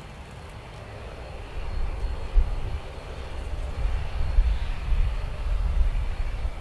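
Regional airliner's engines running, a deep rumble with a rushing noise that grows louder about a second and a half in and stays loud.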